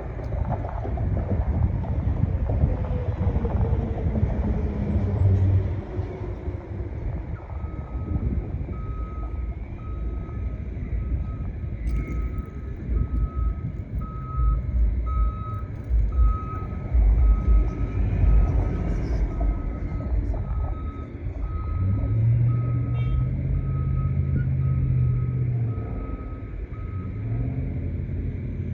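A vehicle's reversing alarm sounding a long series of evenly spaced single-pitch beeps, about one every 0.8 seconds, starting a few seconds in and stopping near the end, over wind rumbling on the microphone.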